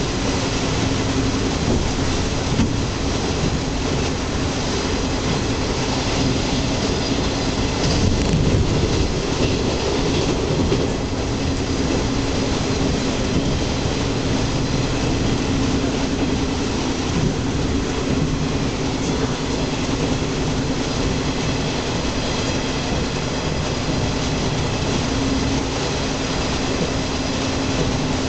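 JR West Hokuriku Main Line local train running, heard from inside the carriage: a steady rolling noise of wheels on rail with a steady low hum underneath.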